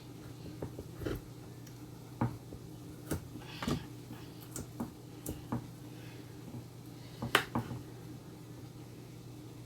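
Knife chopping carrots on a cutting board: irregular sharp knocks, the loudest about seven seconds in, over a steady low hum.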